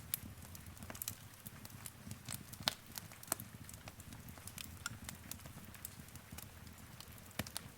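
Fire crackling in a fireplace: irregular sharp pops and snaps, a few louder ones a little before the middle, over a low steady rumble of the flames.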